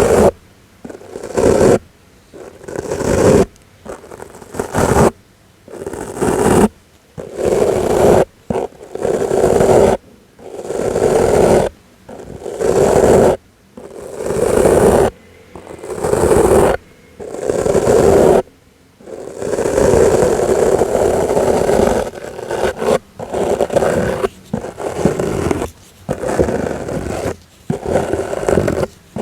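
A soft brush swept in repeated strokes for ASMR, each stroke about a second long and about one every one and a half to two seconds. Past the middle comes a longer unbroken stretch of brushing, then quicker, shorter strokes.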